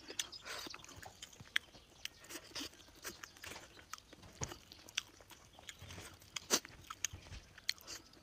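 Close-up chewing and crunching of fried food, with sharp clicks scattered throughout.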